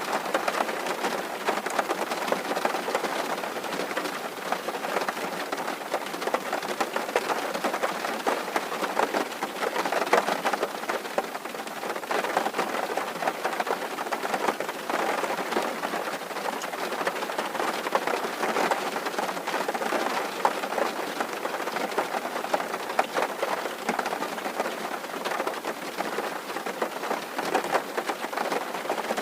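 Steady rain pattering on a tin roof, a dense even spray of drop ticks on the metal.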